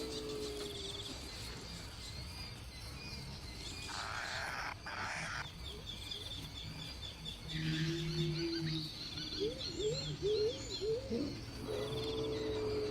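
Birds calling: long level notes, and a run of short rising calls a little after the middle, over high, fast trilling like crickets, with two brief hissing bursts near the middle.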